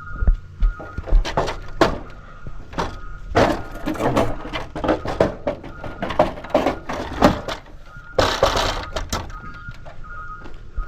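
Irregular knocks, clatter and scraping of hands-on construction work, with a longer, denser rattle about eight seconds in. Behind it an electronic beep repeats steadily, like a vehicle's reversing alarm.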